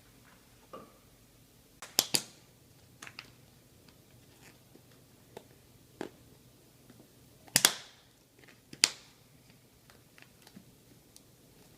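A scattering of sharp clicks and knocks, with the loudest pair about two seconds in and two more loud ones near the eight- and nine-second marks.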